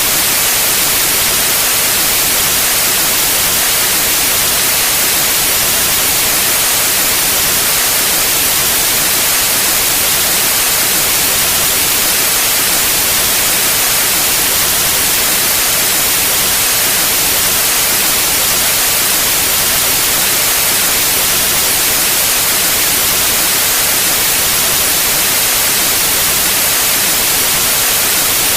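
Steady, unchanging white noise: an even hiss, strongest in the highs.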